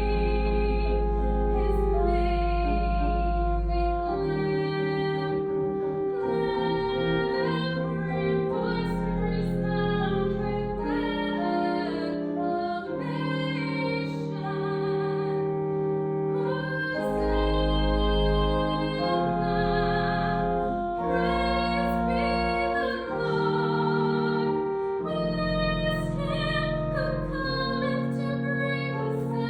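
A woman singing a slow sacred song with long held, wavering notes over a sustained instrumental accompaniment.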